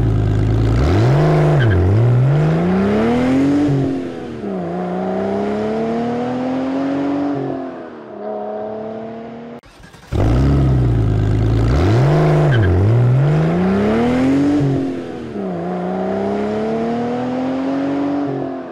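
Car engine revving: two quick blips of the throttle, then a long pull with the pitch climbing, a drop, and a further climb. The same recorded sequence plays twice, the second time starting about ten seconds in.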